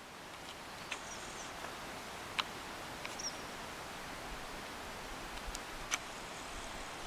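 Quiet outdoor ambience on the water: a steady soft hiss with a few faint, short, high bird chirps and several isolated sharp ticks.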